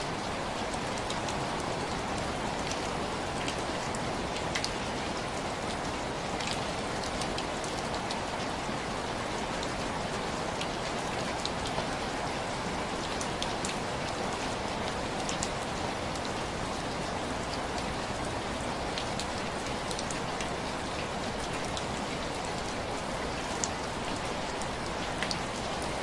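Heavy rain falling steadily, an even hiss with many scattered small sharp ticks of drops and crackles through it.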